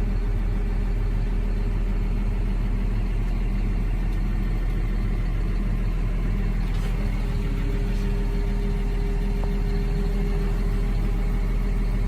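CLAAS Arion 630 tractor's diesel engine running steadily at constant speed, with a faint click about seven seconds in.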